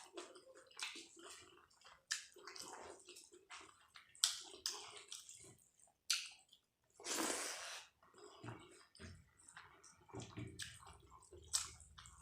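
Close-miked wet chewing and squishing of dal and rice, with many sharp smacking clicks and one longer rush of noise about seven seconds in.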